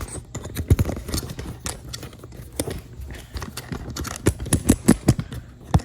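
Handling noise: irregular clicks, knocks and light rattles of hard parts being moved about, with a sharper knock near the end.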